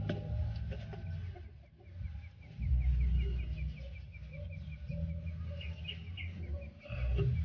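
A low rumble on the microphone comes and goes, with a rapid run of short, high, evenly spaced chirps from a bird in the background from a few seconds in until near the end.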